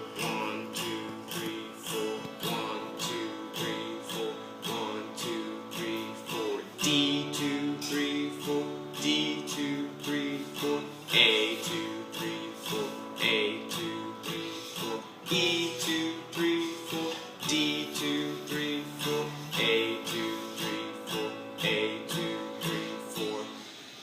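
Guitar strumming chords at a steady pace of about two strokes a second. It works through the A, D and E chords of a 12-bar blues progression, with the chord changing every few seconds.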